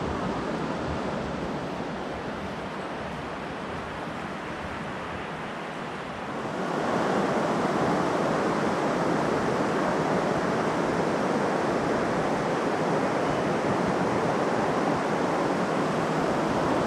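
Steady rushing of flowing water, growing louder about six and a half seconds in.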